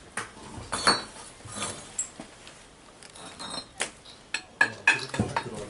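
Scattered, irregular clinks and knocks of hard ceramic pieces being handled, with a few brief ringing tones.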